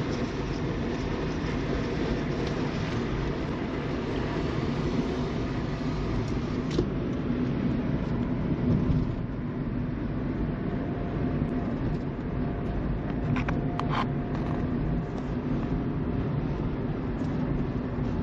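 Steady road noise of a car driving, heard from inside the cabin, with a low steady hum underneath. Two short clicks about half a second apart come about three-quarters of the way through.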